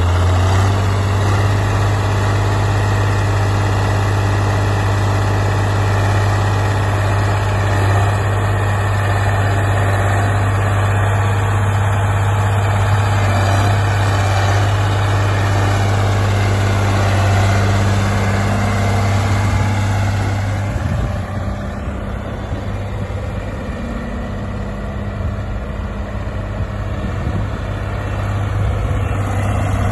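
Road roller's engine running with a strong, steady low hum; about two-thirds of the way through the hum breaks up and the sound drops a little in level before building again.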